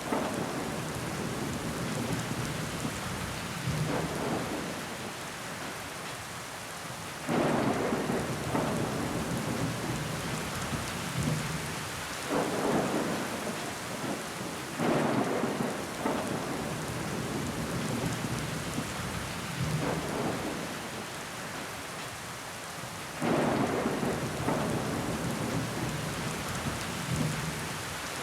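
Steady rain pattering on a window pane. The rain swells suddenly louder several times, about 7, 12, 15 and 23 seconds in, then eases back.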